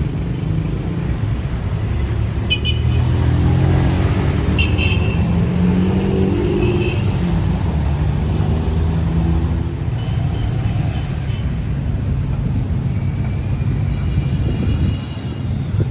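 City street traffic: motor vehicle engines running close by in a steady low rumble, with a few short high-pitched squeaks a few seconds in.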